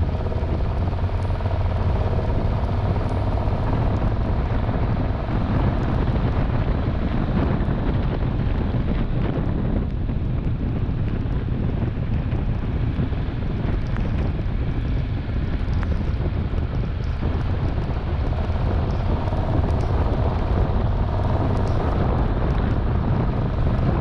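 Wind rushing over the microphone with a steady engine drone underneath, from a Triumph Tiger 1200's three-cylinder engine while the motorcycle is being ridden at a steady pace.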